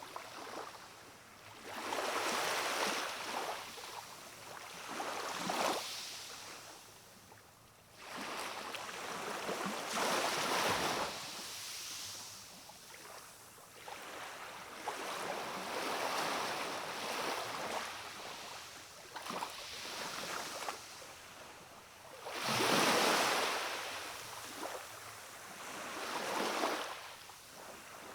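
Gentle waves of a calm sea washing against a rocky shore, swelling and easing every few seconds, with the biggest wash about three-quarters of the way through.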